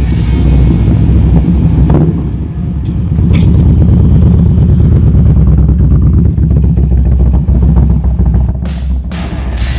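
Harley-Davidson bagger's V-twin engine running through its new mufflers with a deep, pulsing exhaust note. It grows louder a few seconds in and eases off near the end.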